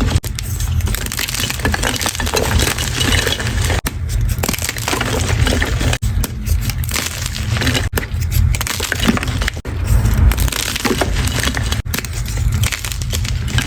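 Blocks of gym chalk being crushed, a dense crackly crunching broken by brief gaps every two seconds or so.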